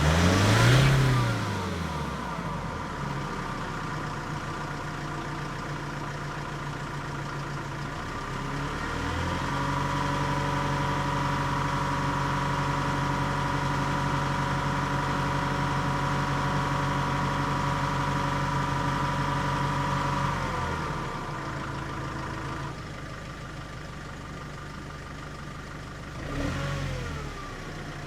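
Nissan Navara D22's YD25 four-cylinder turbo-diesel engine being revved through its exhaust: a quick rev up and down at the start, then idle, then a rise about eight seconds in to a steadily held higher engine speed for roughly twelve seconds, dropping back to idle, with one more short blip near the end.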